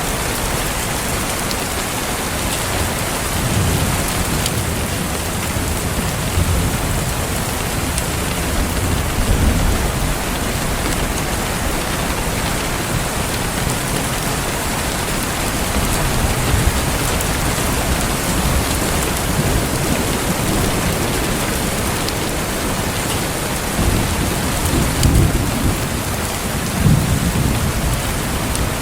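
Steady rain falling, with low thunder rumbling twice: a long roll a few seconds in and another near the end.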